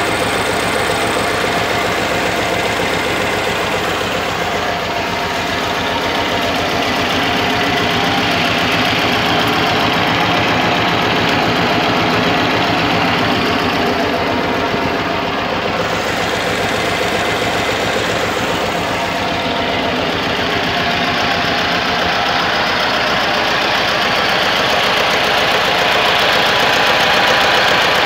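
Deutz F2L912 two-cylinder air-cooled diesel engine of a homemade tractor running steadily, growing a little louder near the end.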